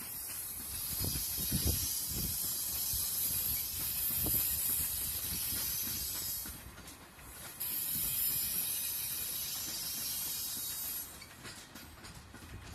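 Metra Electric commuter train passing: a steady high hiss of the cars rolling by, with a few low thumps of wheels over rail joints in the first seconds. The hiss breaks off briefly midway and fades about two seconds before the end.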